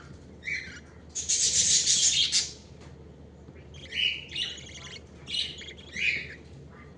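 Pet budgie chirping in short high calls, with a louder, harsh, scratchy chatter lasting over a second near the start.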